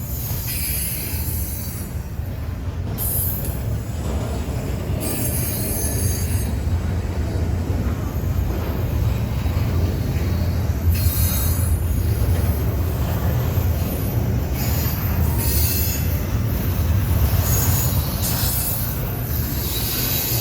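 A freight train rolling past with a steady low rumble, its wheels squealing on the rails in short high-pitched bursts every few seconds.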